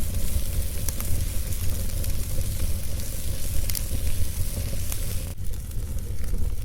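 Wood fire crackling: a steady hiss over a low rumble, with a few sharp pops. The hiss drops suddenly about five seconds in.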